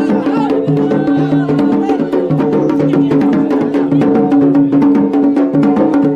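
Wedding procession music: fast, even drumming on tabl and mirfa' drums over a steady held drone.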